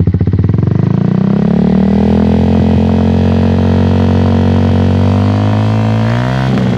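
Yamaha New Jupiter MX's 135 cc single-cylinder four-stroke engine running through an aftermarket Akrapovic-style slip-on exhaust with a semi-cacing header: revved up from idle within the first second or so, held at steady high revs, then revved higher near the end.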